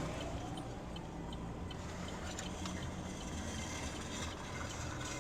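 Steady engine and road noise of a car, with a few faint ticks.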